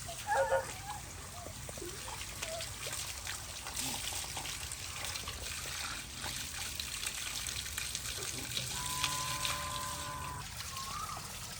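Spring water pouring from a natural outdoor shower spout, trickling and splashing steadily. About nine seconds in, a steady held tone sounds for about a second and a half.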